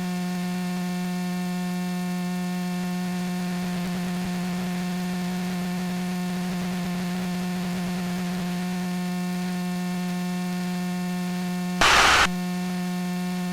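Steady, unchanging hum with many evenly spaced overtones on a light aircraft's intercom audio in cruise flight. A short burst of noise comes about 12 seconds in.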